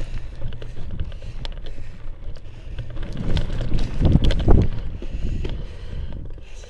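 Wind buffeting an action camera's microphone while a bicycle rides over a dirt trail, with scattered clicks and rattles from the tyres and bike. The buffeting swells loudest about four seconds in.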